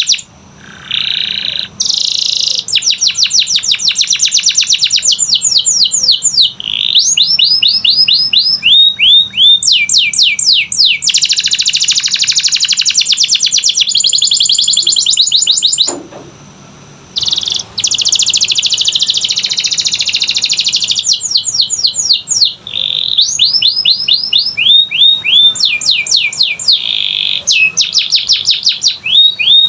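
Domestic canary singing a long song of fast trills and rapidly repeated chirping phrases, with short breaks near the start and about halfway through.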